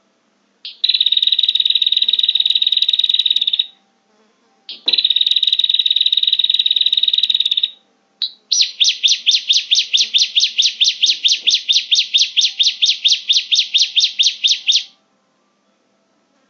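Prenjak (prinia) calls from a bird-lure recording: two buzzy, high trills of about three seconds each, then a fast run of repeated sharp notes, about six a second, for some six seconds.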